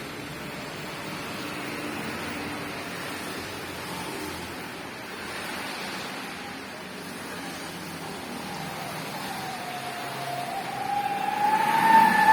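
Steady hiss of rain. Over the last few seconds a whistling tone swells in, dipping and then rising in pitch before it holds steady and loud near the end.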